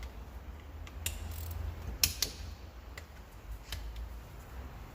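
Torque wrench ratcheting on the injector rocker-arm bolts of a 1.9 TDI PD cylinder head, which are being tightened to 20 Nm. There are a few sharp metallic clicks, one about a second in and a close pair about two seconds in.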